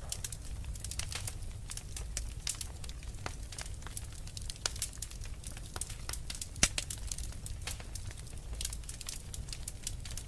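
Wood fire crackling in a fireplace: irregular sharp pops and snaps over a low steady rumble, with one louder crack about six and a half seconds in.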